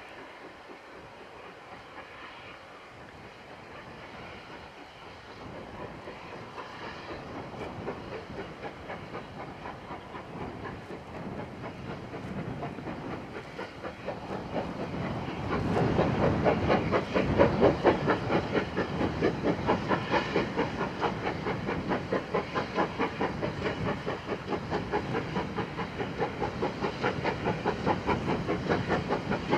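Steam locomotive 9351 approaching under power: its exhaust beats grow steadily louder and turn into a fast, even chuffing from about halfway, with a hiss of steam over it.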